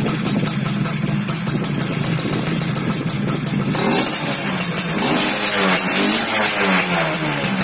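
Yamaha F1ZR two-stroke single-cylinder engine running through an aftermarket racing exhaust with a rapid crackle, revved up and down a few times in the second half.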